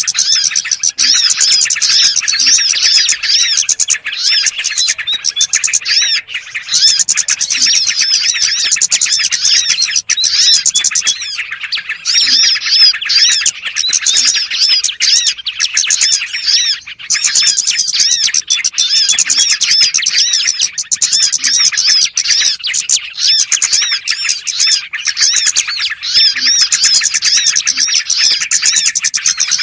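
Dense chorus of many small birds chirping and twittering rapidly and without a break: a bird-lure recording made to draw in small songbirds.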